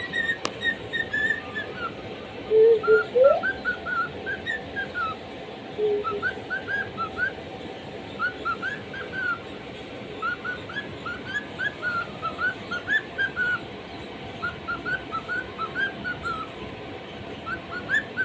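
A bird singing repeated phrases of quick, high rising chirps, each phrase a second or two long with short pauses between. In the first few seconds a lower whistle comes in a few times, twice ending in a rising glide.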